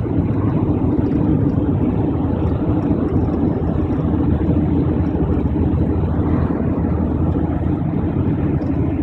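A car driving along, heard from inside: a steady low rumble of engine and road noise.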